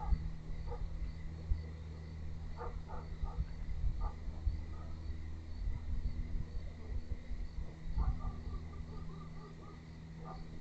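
Faint, evenly repeated insect chirping over a steady low rumble and hum, with a few short, faint calls, including a quick run of notes about eight seconds in.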